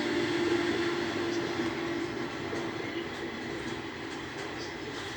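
A train running: a steady noise with a low humming tone that fades out about three seconds in, the whole sound slowly getting quieter.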